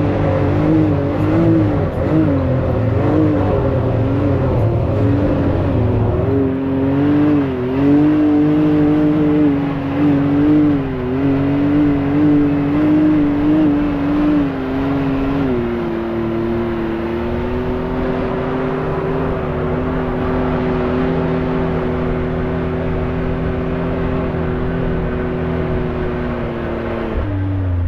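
Can-Am X3 side-by-side engine pulling in four-wheel low, its pitch rising and falling with the throttle for about fifteen seconds, then holding a steady, slightly lower note before falling off near the end.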